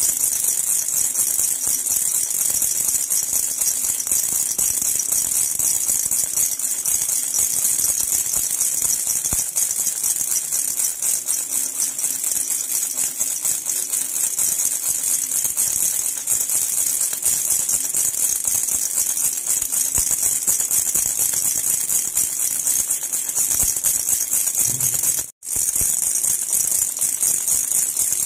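Silver jhunjhuna (Indian baby jingle rattle) shaken continuously, a dense, steady, high-pitched metallic jingle, with a brief break near the end.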